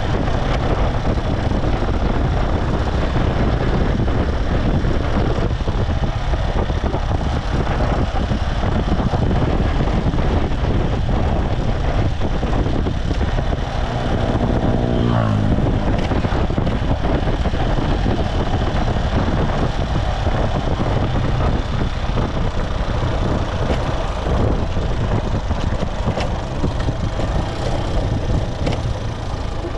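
Motorcycle engine running under way with steady road noise. About halfway through, an engine note rises in pitch for a couple of seconds, as when revving up to accelerate.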